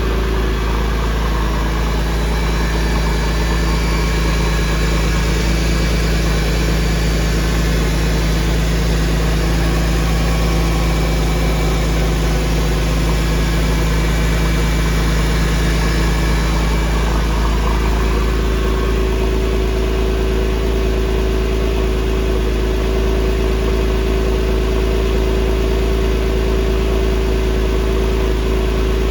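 2004 Porsche 911's flat-six engine idling after a cold start, with a steady low rumble; its tone shifts slightly about two-thirds of the way through.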